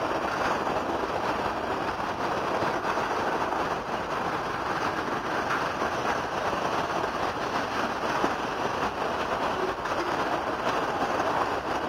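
CSX autorack freight cars rolling past at steady speed: a continuous rushing rumble and rattle of steel wheels on the rails that holds at an even level throughout.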